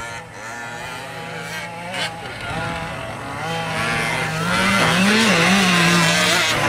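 Small two-stroke petrol engines of 1/5-scale RC off-road race trucks buzzing as they rev up and let off. The pitch wavers, and the sound grows louder about four seconds in as a truck comes closer.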